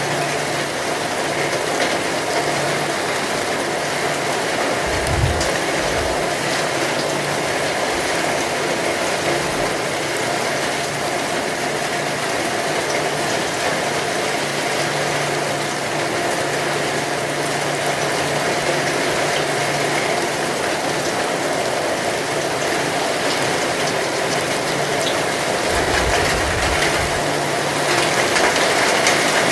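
Heavy rain falling steadily, a dense even hiss, with two brief low rumbles, about five seconds in and near the end.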